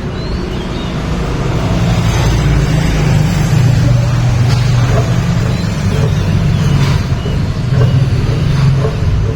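Steady low rumble of motor vehicle traffic, with a humming engine tone.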